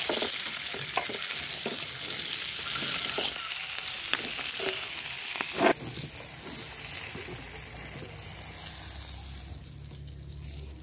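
Peeled boiled eggs and vegetables sizzling in hot oil in a frying pan, stirred with a spatula that knocks against the pan now and then, the sharpest knock a little past halfway. The sizzle dies down gradually over the second half.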